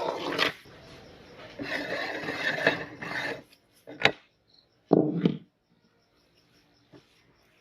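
Meat grinder crushing a hard item: bursts of gritty grinding and crunching, then a sharp crack about four seconds in and another crunch about five seconds in, with silent gaps between.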